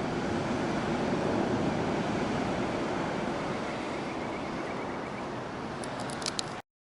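Steady rushing noise of the open seaside, easing slightly, with a few sharp clicks just before the sound cuts off abruptly.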